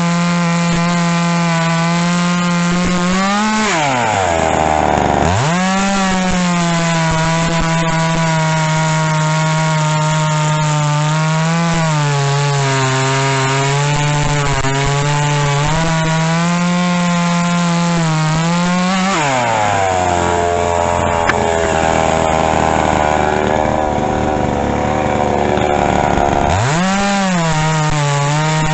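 Two-stroke gas chainsaw running at high revs, bogging down twice as it cuts into wood: briefly about four seconds in, then for several seconds in the second half, before revving back up near the end.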